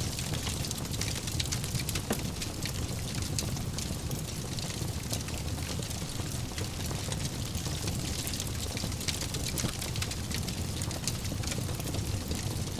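Fireplace fire crackling, with many small sharp pops over a steady hiss and low rumble.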